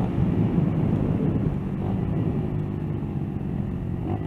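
Motorcycle engine running steadily under way at an even speed.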